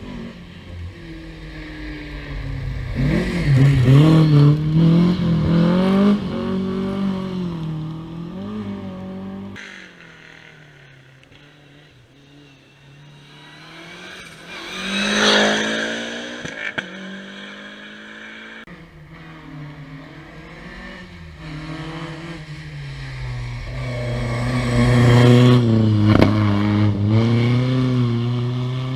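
Historic rally cars at full throttle on a stage, in three separate runs. Engines rev up and down through gear changes, and one car passes close by about halfway through with a quick rise and fall in pitch.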